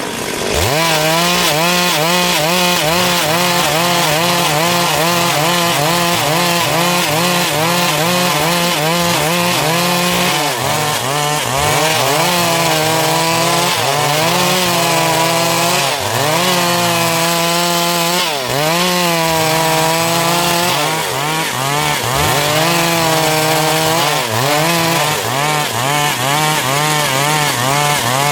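Stihl MS382 two-stroke chainsaw running at high revs while cutting dry wood. Its note drops briefly and climbs back several times as the chain bites into the log under load.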